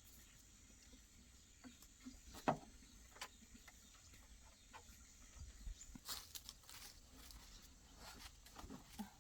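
Faint, scattered clicks and light knocks over a low background hum, the sharpest about two and a half seconds in and a cluster of them a little after six seconds.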